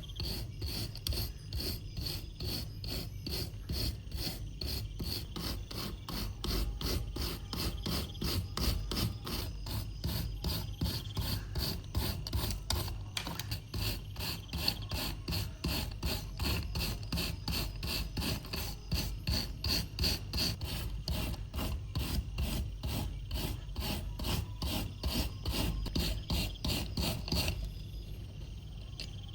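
Rapid, even back-and-forth rasping strokes, about three or four a second, of hand abrasion on a rusty old knife. The strokes stop briefly near the end.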